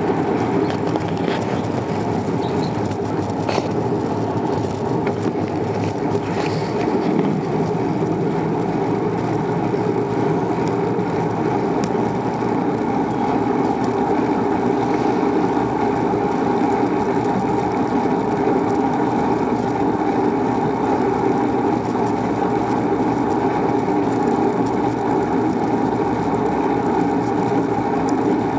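Steady rushing noise of a bicycle ride: wind and road noise on the moving camera's microphone, even throughout.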